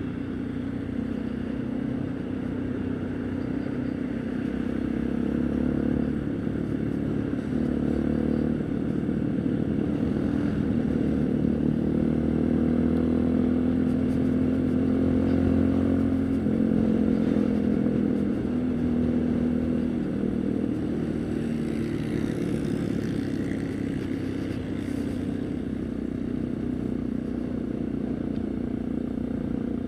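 Haojue NK150's single-cylinder engine running under way, heard from the rider's position. It grows louder with a slight rise in pitch through the first half, then eases off.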